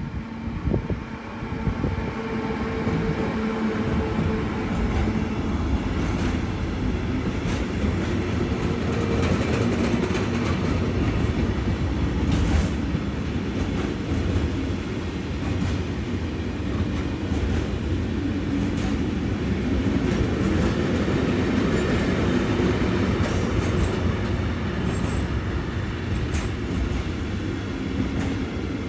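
A train running past at close range: a steady, loud rumble of wheels on rail with scattered clicks.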